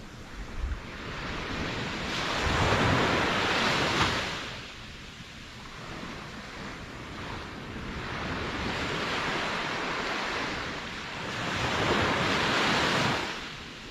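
Ocean waves rolling in and washing up the shore, the surf swelling and fading, with two larger waves breaking, one a couple of seconds in and one near the end.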